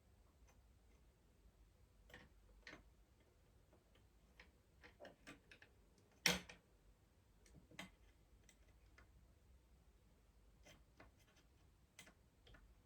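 Faint, scattered clicks and taps of an M.2 SSD and small motherboard parts being handled, with one sharper click about six seconds in.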